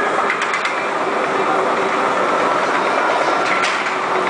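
Maelstrom ride boat climbing the lift on its chain conveyor: a steady mechanical rattle with a few sharp clicks.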